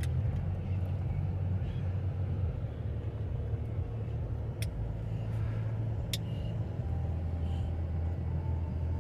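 A car running, with a steady low engine and road rumble. There are two sharp clicks, about four and a half and six seconds in.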